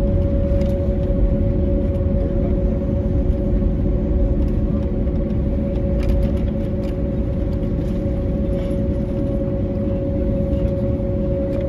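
Airbus A321neo cabin noise on the ground after landing: a steady low rumble of the engines and rolling gear with an even hum held at two pitches, and a few faint knocks and rattles.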